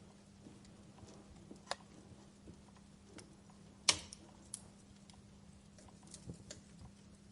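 Wood fire crackling in a fireplace: scattered small snaps and pops, with one sharp loud pop about four seconds in, over a faint steady hum.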